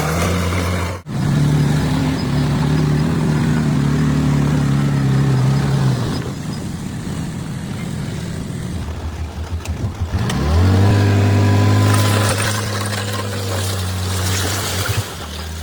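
Bulldozer's diesel engine running under load while pushing earth and rocks. About ten seconds in it revs up with a rising pitch, holds higher for a few seconds, then drops back near the end.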